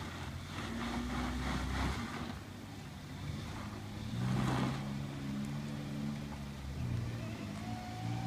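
Daihatsu Terios Kid's 660 cc three-cylinder engine pulling at low revs as the small 4x4 crawls over a dirt mound. The revs rise and fall, with a louder surge of throttle about four and a half seconds in.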